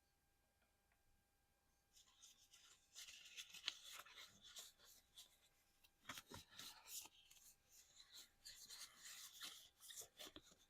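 Close-miked ASMR handling sounds: fingernails scratching, tracing and tapping on a small object, with many quick clicks, starting about two seconds in after near silence.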